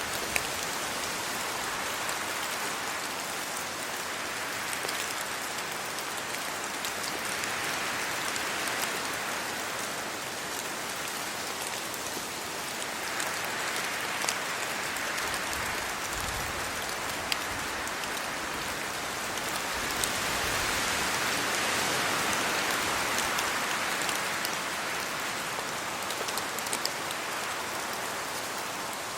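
Steady rain falling on trees and leaves, with scattered sharp drips and slow swells every few seconds as wind gusts through the foliage. A brief low rumble comes twice around the middle.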